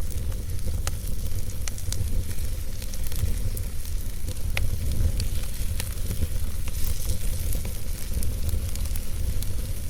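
Fire burning in a fireplace: scattered sharp crackles and pops over a steady low rumble and hiss.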